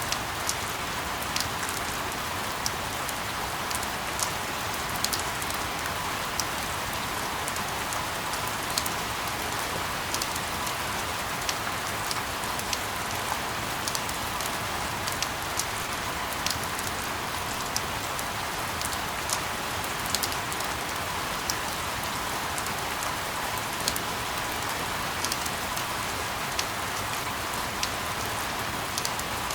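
Steady rain, a continuous even hiss with many scattered sharp drop ticks landing irregularly on top.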